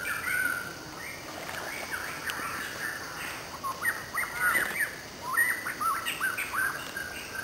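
Birds chirping, many short quick calls.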